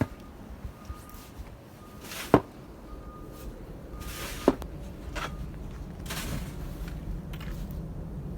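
Snow shovel working through deep snow: several scraping, scooping swishes, with two sharp knocks of the shovel, the louder about two seconds in and another near the middle.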